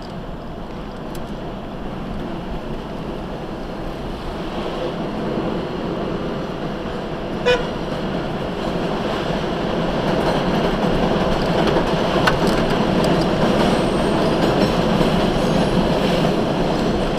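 A train running on the elevated tracks overhead, its rumble growing louder, heard from inside a vehicle's cab over the vehicle's own road noise. A short horn beep sounds about seven and a half seconds in.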